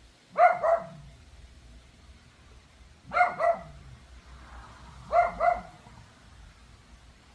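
Pomeranian barking: three quick double barks, spaced about two to three seconds apart.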